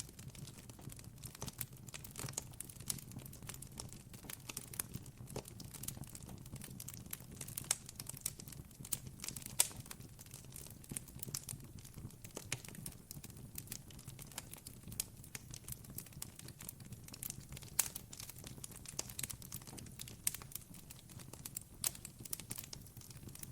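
Campfire crackling steadily: dense, irregular sharp pops and snaps of burning wood over a faint low hum.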